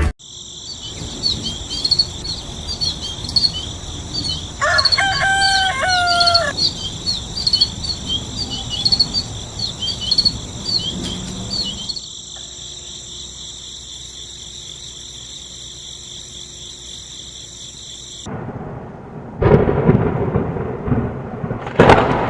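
Outdoor ambience of insects with a steady high drone and repeated chirps. A rooster crows once about five seconds in. Near the end a loud rumbling noise sets in.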